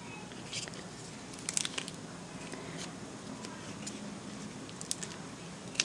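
Faint rustles and a few small clicks of a handmade paper mini album being opened and handled, over a low steady hum.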